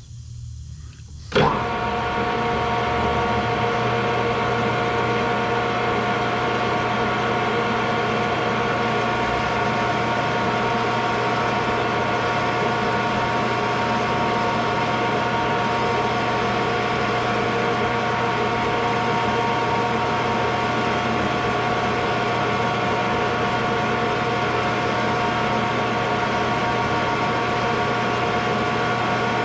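Metal lathe switched on about a second and a half in and then running steadily, its motor and gearing humming with several steady tones, as the valve face is cut.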